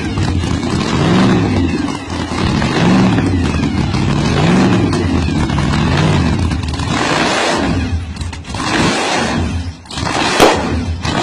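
Small gasoline engine of a mini car revved up and down over and over, about once every second and a half. In the second half the revving gives way to rougher, noisier running, with one sharp knock near the end.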